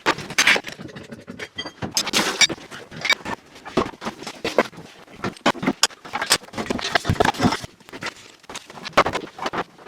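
A rapid, irregular run of short scrapes, clicks and knocks, several a second.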